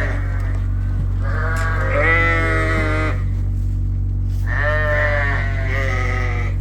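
Sheep bleating: two long, wavering bleats, one about a second and a half in and another from about four and a half seconds in. A steady low machine hum runs underneath.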